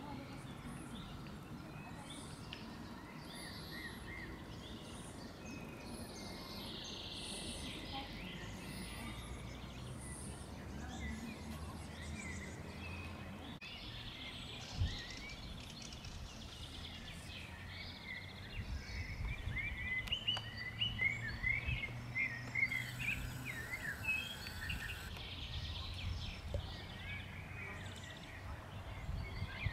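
Songbirds chirping and singing over a steady low background rumble, the chirping growing busier in the second half. A single sharp knock stands out about halfway through.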